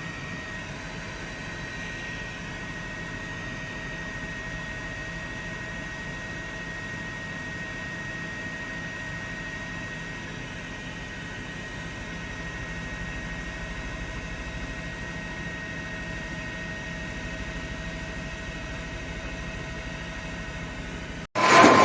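A steady engine drone with a constant high whine and a hiss of air. Near the end it cuts off abruptly to a much louder scene with a siren rising in pitch.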